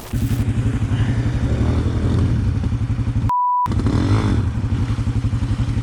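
A motorcycle engine idling with a steady, even beat, which comes in suddenly right at the start. About three and a half seconds in, it is briefly replaced by a short, high censor beep.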